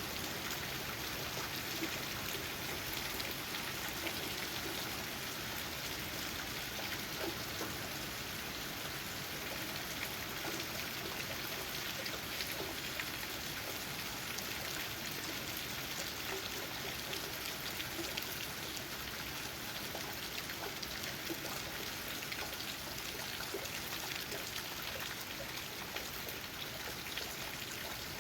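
Steady rain falling, countless raindrops tapping on leaves in an even, unbroken hiss with fine drip ticks throughout.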